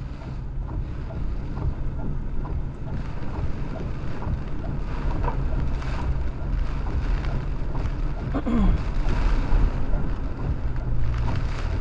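Inside a truck driving through a tropical storm: steady low rumble of engine and tyres on the wet road under a continuous hiss of wind and rain against the vehicle. A brief falling squeak about eight and a half seconds in.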